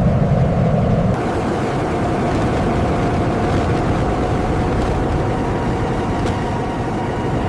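Engine running steadily: an even rumble with a faint steady whine. About a second in, a deeper hum drops away.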